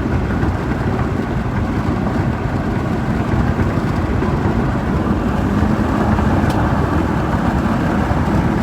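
Steady road and engine noise inside a moving truck's cab, with a faint click about six and a half seconds in.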